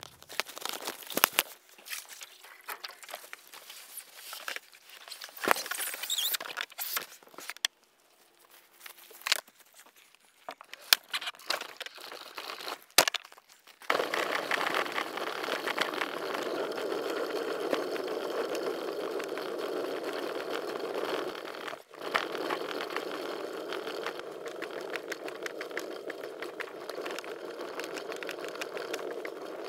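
Scattered clicks and knocks, then, about halfway in, a steady rolling rattle and rumble starts: a loaded kayak on a wheeled cart being pulled over gravel and pavement. It drops out briefly once near the end.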